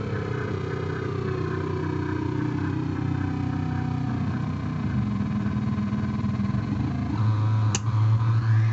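Homemade 9-volt oscillator noise box droning as its knobs are turned: a buzzy, engine-like tone whose pitch slowly falls over the first few seconds, then settles into a louder low buzz near the end, with a brief high chirp shortly before it ends.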